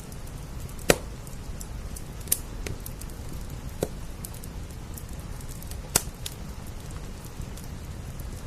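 Wood fire crackling, with four sharp pops and several fainter snaps spread through, over a steady background of rain.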